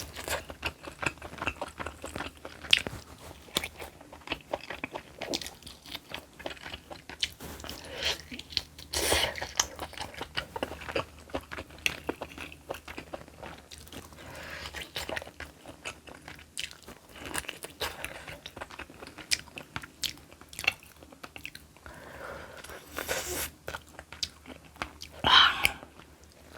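Close-miked eating: a person biting and chewing food with crunching, as a steady run of small sharp mouth clicks, with a few louder bites.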